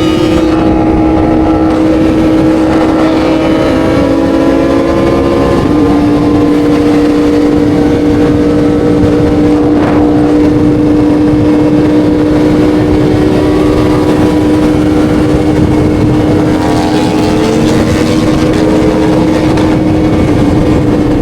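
Sport motorcycle engine running at high, steady revs, its pitch stepping down slightly about six seconds in.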